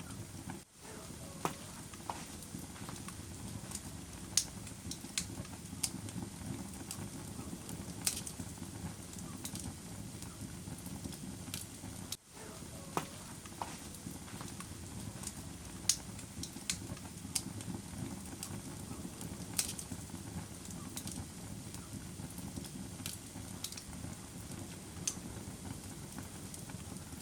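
Wood fire crackling in a fireplace: a steady low rumble of burning with sharp pops and snaps every second or so. The sound cuts out for an instant twice, about a second in and again about halfway through.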